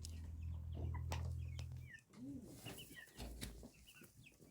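Local chickens clucking, with short high calls scattered throughout. A low steady hum underneath stops about two seconds in.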